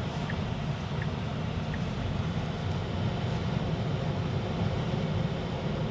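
Steady road and tyre noise heard inside a moving Tesla's cabin, with no engine sound. A few faint, evenly spaced ticks in the first two seconds.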